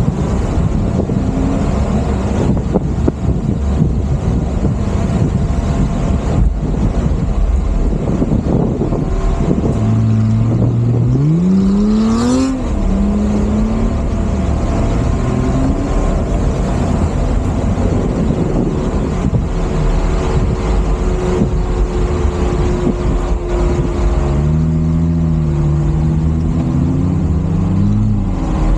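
A 4x4's engine driving hard over sand dunes over a steady low rumble. About eleven seconds in the engine revs up sharply, and it rises and falls again several times near the end.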